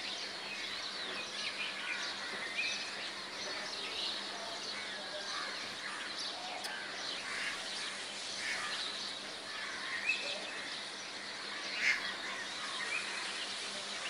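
Birds chirping, with many short calls scattered throughout over a steady background hiss.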